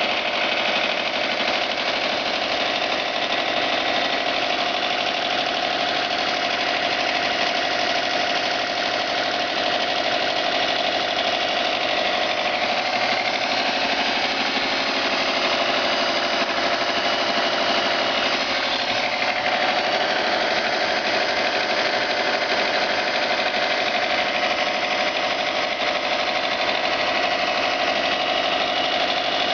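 Subaru turbo engine running with a strange rapid knocking: the owner wonders whether it is piston slap, rod knock or worn bearings.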